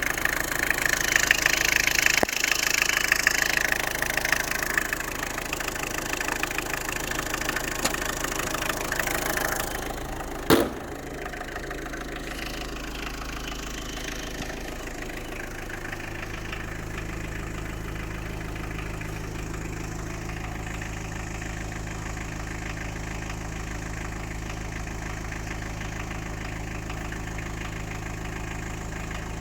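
Tata Indica V2 engine running, louder for about the first ten seconds, then a single sharp thump about ten seconds in. After the thump it idles quietly and steadily.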